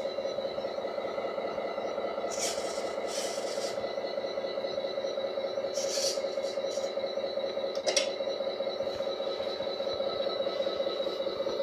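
1/14-scale RC Scania truck running: a steady, rapidly pulsing pitched drone, broken by short hisses about two and a half, three, six and eight seconds in.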